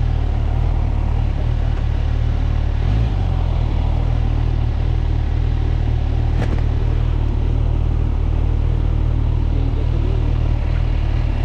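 Kawasaki Ninja 1000SX's inline-four engine running at a steady pace, a constant low rumble with no revving.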